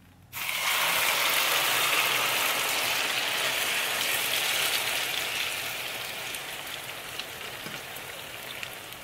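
Tortilla de patatas mixture of beaten egg and fried potato hitting hot oil in a frying pan and sizzling. The sizzle starts suddenly and slowly dies down as the pan fills.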